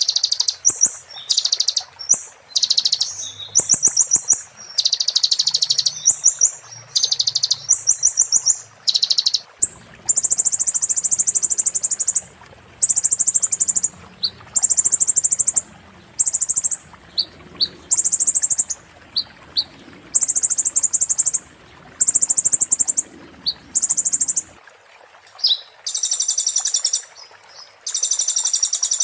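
A konin songbird singing a fast, high-pitched string of rapid trilled phrases, broken by short gaps. This is the sharp, rattling 'muntah beling' style of song used as master song for training kacer and murai.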